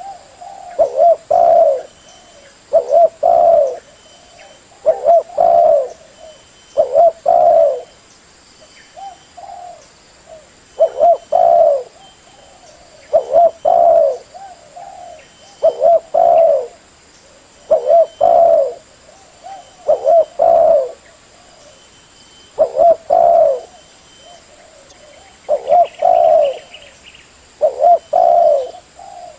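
Spotted dove cooing over and over, each phrase a short run of low, wavering coos, repeated about every two seconds. It is the dove's call used as a lure for catching doves.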